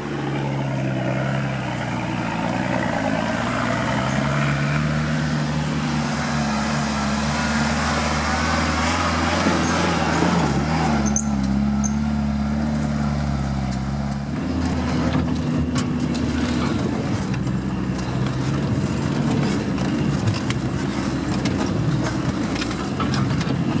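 Off-road vehicle engine running under changing load, its pitch rising and falling, with scattered knocks and rattles in the second half.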